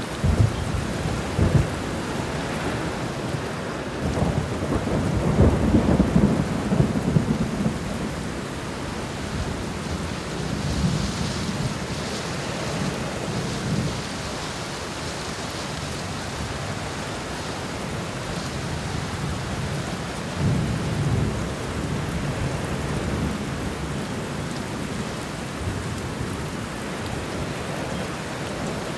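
Thunderstorm: steady rain falling, with rolling thunder rumbling low several times, the longest roll about five seconds in and another about twenty seconds in.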